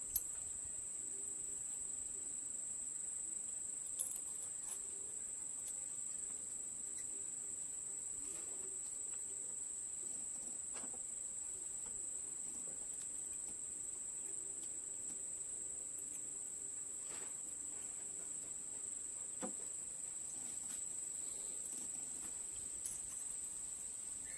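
Steady, unbroken high-pitched insect trilling, typical of crickets, with a few faint clicks, the sharpest near the start.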